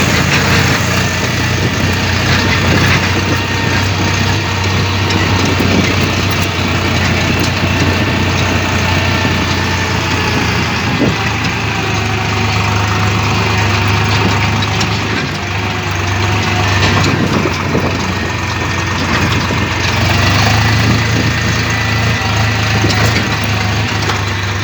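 Tractor engine running steadily at idle, a loud even low hum.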